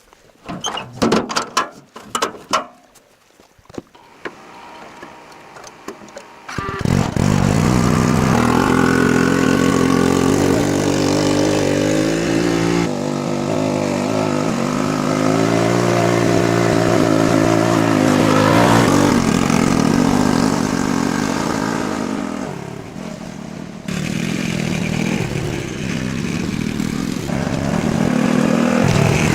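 A few clicks and knocks, then about six seconds in a small engine starts and runs loudly, its pitch rising and falling as the throttle changes.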